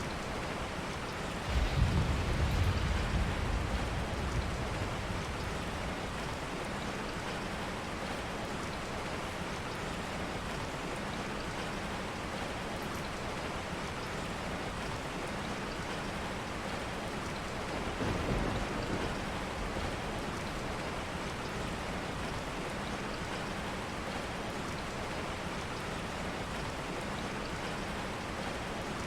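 Steady rain with two low rolls of thunder: a louder one about two seconds in that fades over a few seconds, and a softer one later on.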